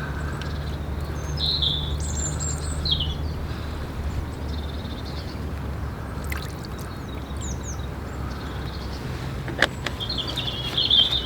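Small wild birds chirping in short high phrases over a steady low background hum, with a couple of sharp clicks near the end.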